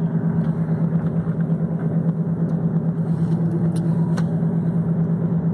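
Steady engine and road noise inside a moving car's cabin: an even hum with a strong low drone, and a few faint clicks.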